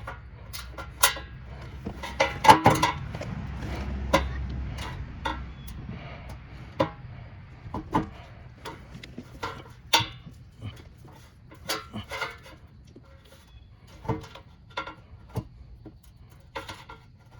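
Irregular clicks and knocks of a pry tool working a car's plastic clips and sensor loose, with parts being handled; a few sharper knocks stand out among lighter taps.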